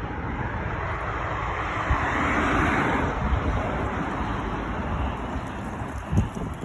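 A road vehicle driving past, its noise swelling about two seconds in and then easing off, with wind rumbling on the microphone.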